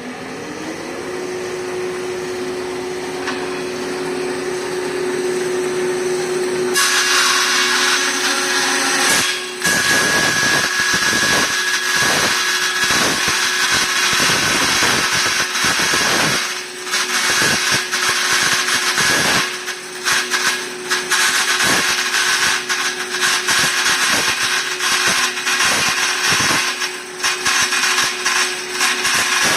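380 V electric band saw coming up to speed with a steady hum, then from about seven seconds in a much louder, dense cutting noise with a high ringing tone that wavers in level as the blade works through the stock.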